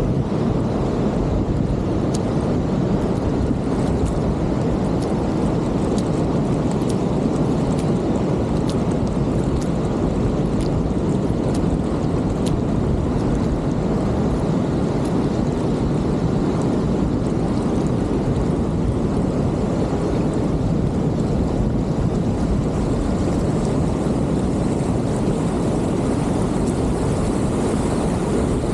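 Steady rush of moving water, heavy and even with no breaks, with a few faint light ticks over it.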